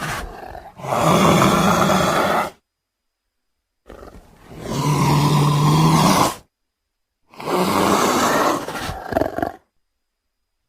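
An Indian leopard calls three times, each call a long harsh roar of about two seconds, with dead silence between them.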